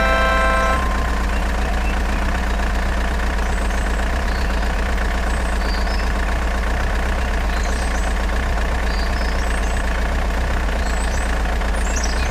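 Truck engine idling steadily with a deep, even hum. A short pitched tone sounds in the first second, and faint high chirps come now and then.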